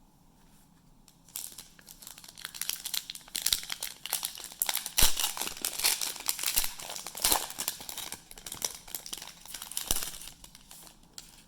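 Plastic wrapper of a trading card pack crinkling and tearing as it is ripped open, a dense run of sharp crackles starting about a second in and stopping near the end.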